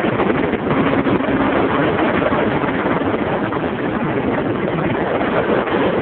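Steady, loud rush of a vehicle travelling at highway speed: tyre and wind noise with an engine running underneath.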